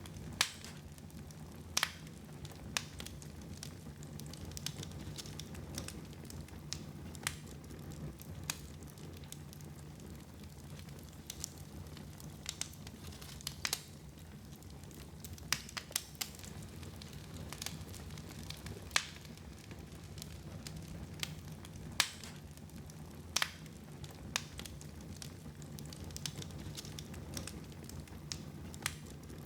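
Wood fire burning in a fireplace: sharp crackles and pops at irregular moments, a second or two apart, over a steady low rumble.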